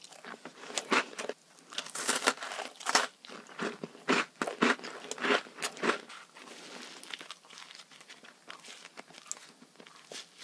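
Close-miked eating of crunchy sweets: a quick run of sharp crackling bites and crunches in the first six seconds, then softer chewing crackle.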